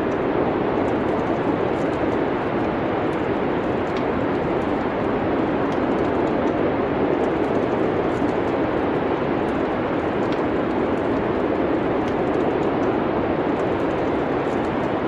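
A wood fire crackling with faint, scattered small pops over a steady rushing noise, like wind.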